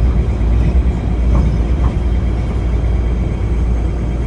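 PATH train running through a tunnel, heard from inside the car: a loud, steady rumble of wheels on rails, with a couple of faint short squeals about a second and a half in.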